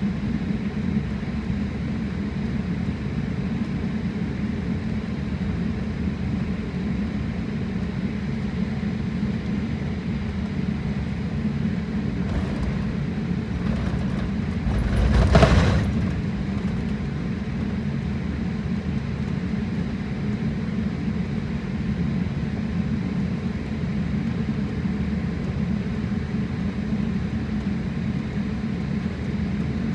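Steady low roar of a passenger jet's engines and airflow heard inside the cabin. About fifteen seconds in, a brief, louder whoosh rises out of it and fades within a second or two.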